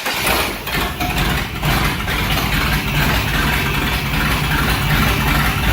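Freshly swapped, throttle-body-injected truck engine running steadily just after starting, its computer freshly reset by disconnecting the battery.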